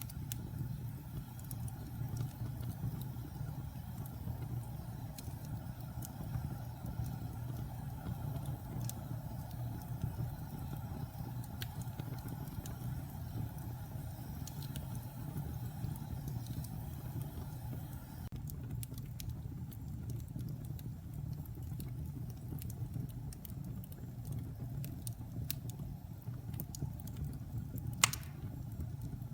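Wood fire burning in a fireplace: a steady low rumble of flames with scattered crackles of burning wood, and one loud pop near the end.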